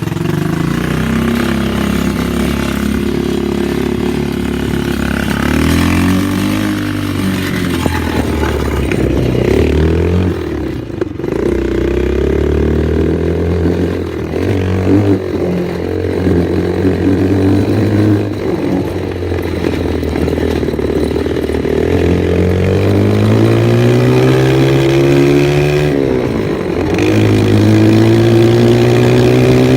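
Dirt bike engine running as it is ridden, the engine note climbing with the throttle and dropping back several times, with brief dips about a third of the way in and near the end.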